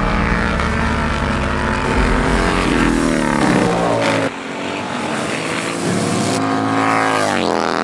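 Racing bagger motorcycles' V-twin engines at high revs, the pitch rising and falling as they accelerate and shift. The sound changes abruptly about four seconds in, and near the end the pitch drops sharply as a bike slows.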